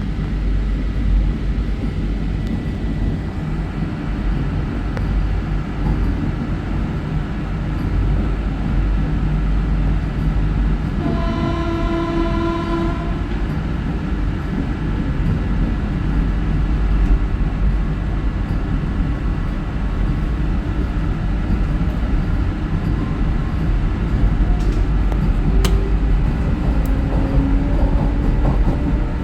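Vande Bharat Express train running, a steady low rumble throughout. About eleven seconds in, a train horn sounds one held note for about two seconds.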